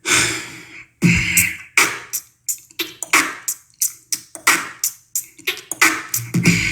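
Solo beatboxing: mouth-made drum sounds, opening with a long hissing hit, then a fast rhythm of sharp, clipped kick, snare and hi-hat sounds.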